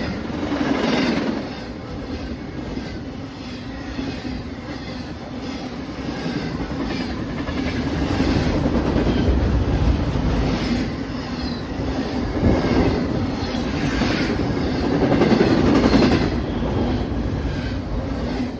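Train cars rolling past on the rails with a steady rumble, wheels clicking over the rail joints in repeated clusters.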